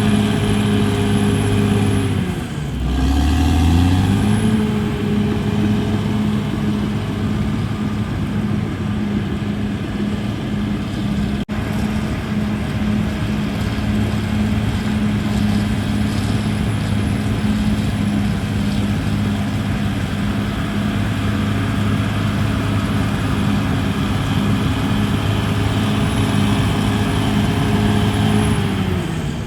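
CAT D6R bulldozer's diesel engine running steadily under load. It drops in revs about two seconds in, climbs back up a couple of seconds later, and drops again near the end.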